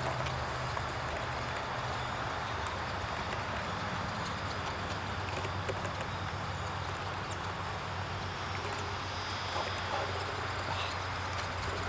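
Steady rushing background noise over a low hum, with a few faint short chirps from small birds near the end.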